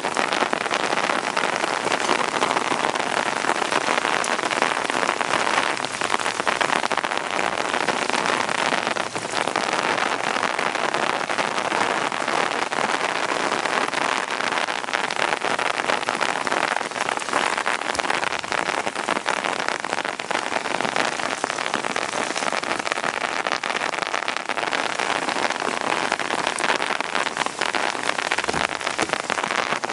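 Heavy rain falling steadily, a dense patter of drops striking hard surfaces.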